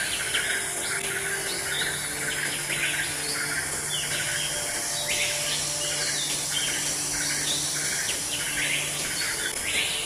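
Birds chirping in many short, repeated calls over a steady high hiss.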